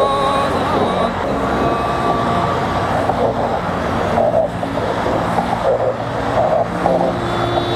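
Procession of tow trucks and other vehicles moving along the freeway, many engines running together in a steady, loud traffic din.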